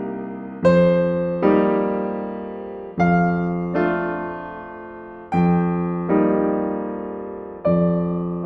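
Slow, gentle solo piano music: chords struck in pairs, each left to ring and fade before the next.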